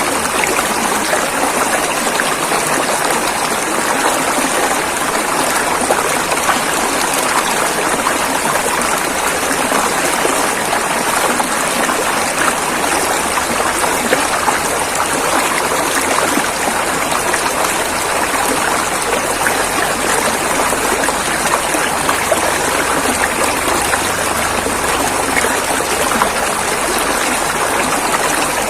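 River water flowing over rocks, a steady rushing and splashing with no let-up.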